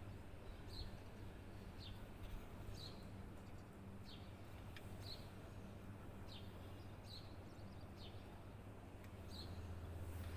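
A bird calling over and over, short high chirps alternating with quick falling notes, about one a second. Under it runs a steady low hum that grows louder near the end.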